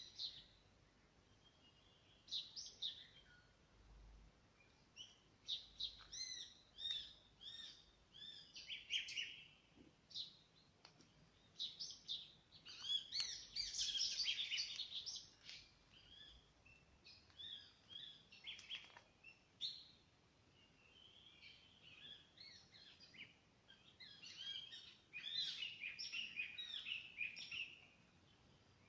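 Birds chirping and calling in short clustered bursts of high, quick notes, busiest about halfway through and again near the end.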